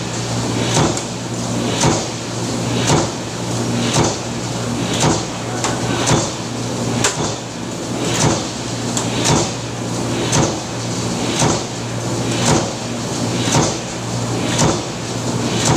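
Factory power press cycling, one stroke about every second, over a steady low hum from the running machinery.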